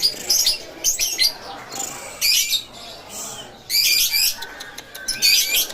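Lovebird in full song: about five loud, high-pitched trilled bursts, each under a second long, separated by short pauses.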